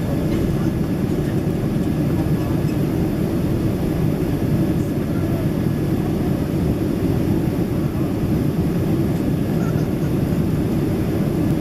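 Steady roar of a Boeing 767-300ER's engines and airflow heard inside the passenger cabin, with a faint thin whine above it.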